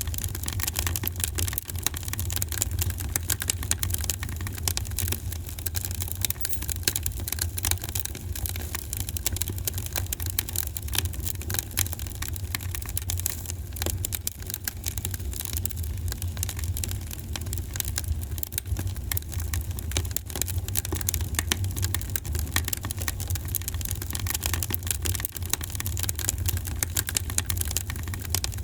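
Wood fire burning in a fireplace: a steady low rumble under dense, continuous crackling.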